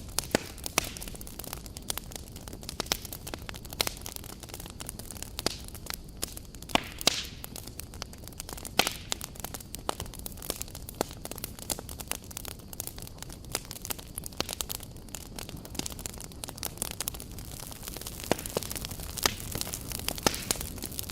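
Wood campfire burning, crackling with frequent irregular pops and snaps over a steady hiss of the flames.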